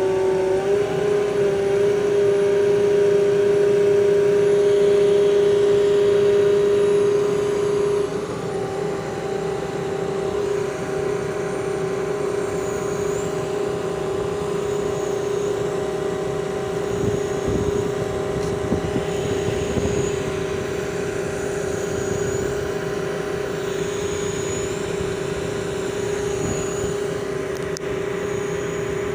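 Putzmeister concrete pump running: a steady machine whine from its engine and hydraulics. The level dips slightly about eight seconds in, and later faint high chirps repeat about every two seconds.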